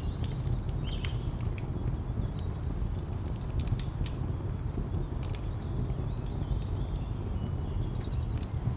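Fire crackling with irregular sharp pops and snaps over a steady low rumble of distant traffic, with a few brief high bird chirps.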